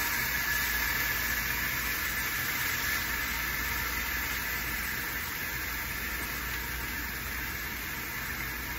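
Turkey burger patty sizzling in a frying pan just after being flipped onto its raw side: a steady hiss that slowly fades.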